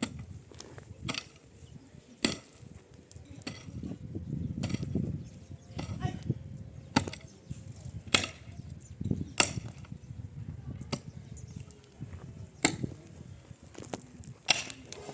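A dozen or so sharp blows of a hand tool striking something hard, irregularly spaced about a second apart, with low rustling and shuffling between the strikes.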